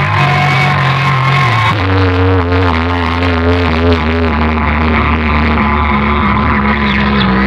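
Loud music with heavy sustained bass played through a large DJ sound-box system; the tune changes about two seconds in.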